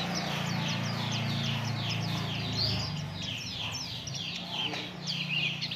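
Pleci (white-eye) singing: a fast, continuous string of high, downslurred notes, about four or five a second, over a steady low hum.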